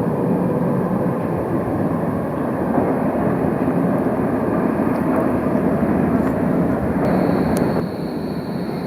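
Tram passing with a steady rolling rumble. A thin high whine joins near the end, and a single click comes just after it.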